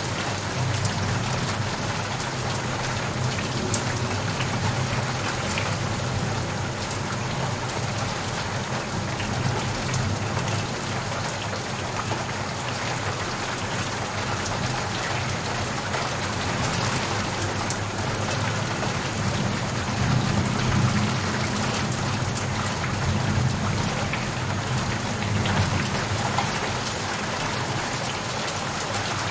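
Steady heavy rain, with scattered drops ticking on a surface over a low, steady rumble.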